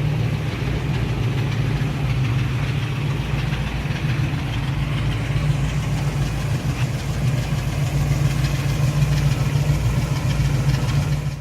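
1956 Chevrolet Corvette's V8 engine idling steadily with a low, even hum.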